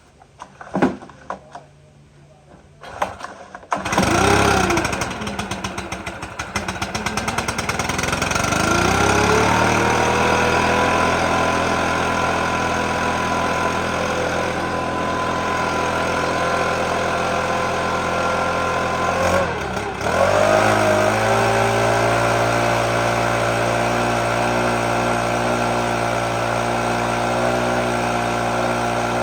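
Stihl BR600 backpack blower's 4-MIX engine being pull-started: a few short rattles of the starter, then it catches about four seconds in, surges and sags, and settles into a steady run. About two-thirds through it dips as if about to stall and picks back up, a sign of an idle set too low, which the mechanic thinks needs bringing up a little.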